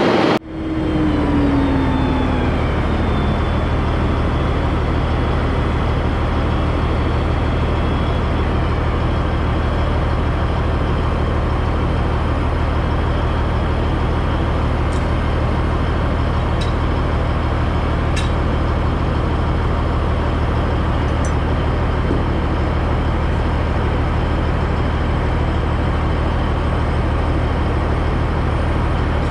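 Heavy diesel engine running steadily, a low drone with no change in speed, after a brief drop-out about half a second in.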